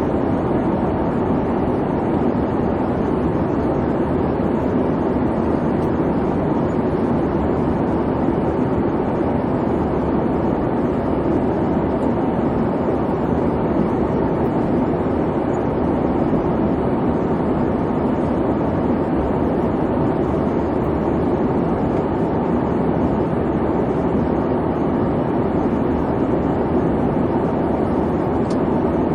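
Airliner cabin noise in cruise: a steady, even rumble with hiss from the engines and airflow.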